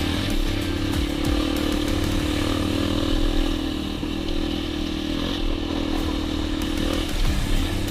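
Dirt bike engine running steadily under way.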